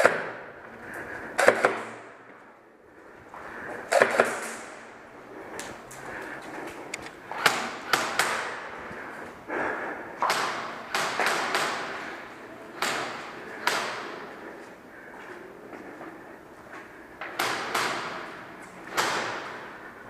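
Irregular thumps and scuffing knocks, roughly one every second or two, each dying away quickly.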